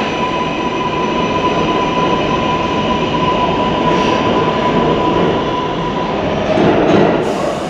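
Train running on the rails: a loud, steady rumble with a steady high whine that stops about six seconds in.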